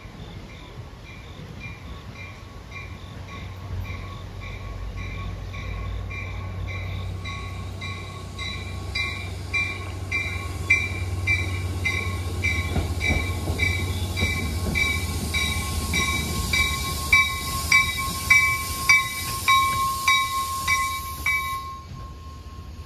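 NJ Transit commuter train pulling into the station: a bell rings steadily, about two to three strokes a second, over the train's low rumble, which grows as it nears. A hiss joins about a third of the way in, and loud wheel knocks come as the cars pass close by, before the hiss cuts off just before the end.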